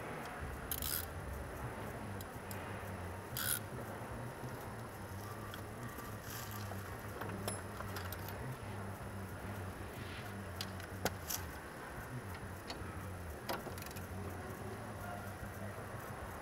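Metal hand tools clicking and jangling sporadically as a wrench is fitted to the brake caliper bolts, over a steady low hum.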